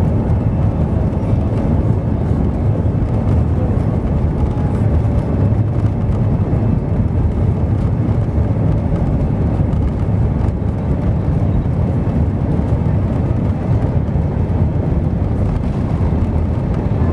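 Airbus A320 cabin noise: a steady, loud low rumble of the jet engines and airflow heard from inside the passenger cabin.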